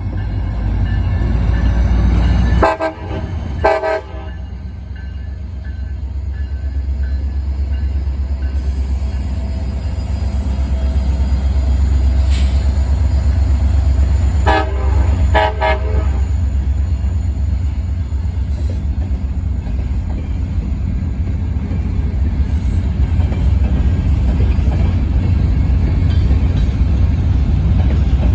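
Diesel freight locomotive and its train rumbling past, the horn sounding two short blasts a few seconds in and two more about halfway through.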